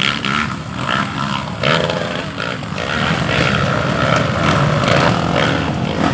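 Off-road dirt bike engine running, its revs rising and falling.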